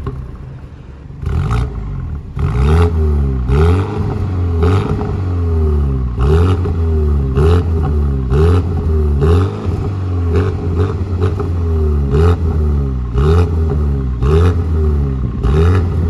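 BMW M135i's turbocharged four-cylinder engine at idle, revved in repeated throttle blips about once a second, each rising and falling in pitch. The exhaust note sounds held back, which the owner puts down to the particulate filter and emissions rules.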